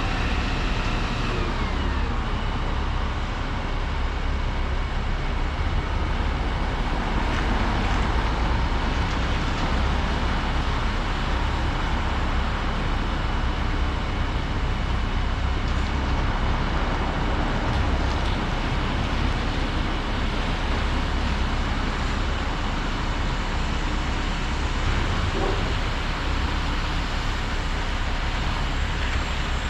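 Volvo 235EL excavator's diesel engine and hydraulics working steadily, with a brief falling whine about two seconds in.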